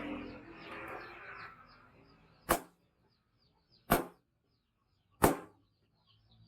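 A rough scraping for the first two seconds, then three sharp hammer strikes on steel about one and a half seconds apart. Small birds chirp faintly throughout.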